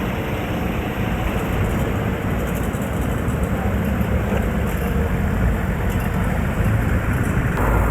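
Steady outdoor vehicle and traffic noise, an even rumble without speech, changing abruptly shortly before the end.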